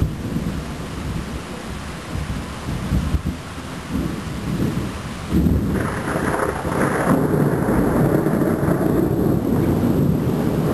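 Thunder rolling in a thunderstorm, a low rumble that swells louder about halfway through and keeps rolling, with rain falling.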